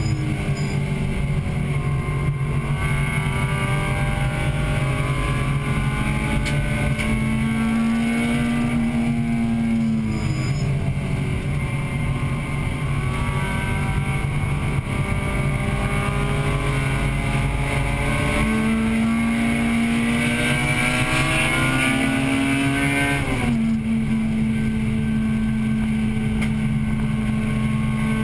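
1998 Acura Integra Type-R's 1.8-litre VTEC four-cylinder heard from inside the car at race pace. The engine note climbs steadily, then drops sharply about a third of the way in and again near the end as revs fall, with a steady rumble underneath.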